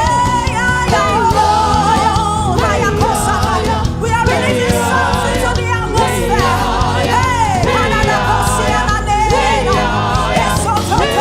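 Gospel music with a lead voice singing over a steady band backing.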